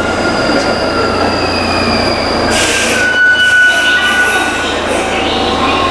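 Train at an underground station platform, its wheels squealing in several thin, high tones that drift and shift in pitch. A short burst of hiss comes about two and a half seconds in.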